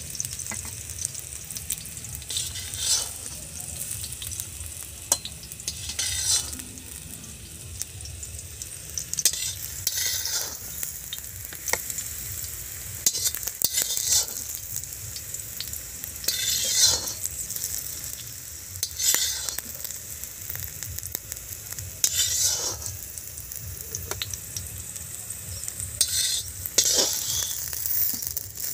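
Snake gourd slices frying in hot oil in a wok, a steady sizzle, with a metal spatula scooping and scraping through the pan every two to three seconds as the fried slices are lifted out.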